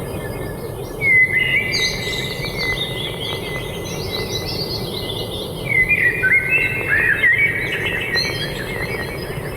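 Small songbirds chirping and whistling in quick, gliding phrases, with a loud burst of song about a second in and another from about six seconds in, over a steady low background rush.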